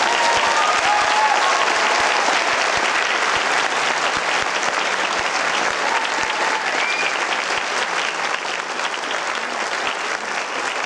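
Audience applauding steadily, with a few brief calls from the crowd near the start and again partway through.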